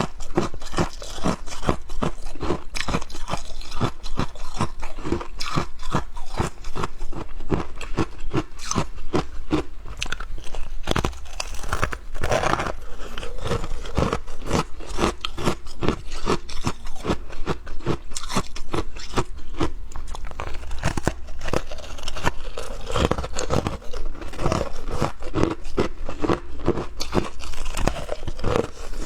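Close-miked crunching of frost, a dense, unbroken run of crisp crunches several times a second.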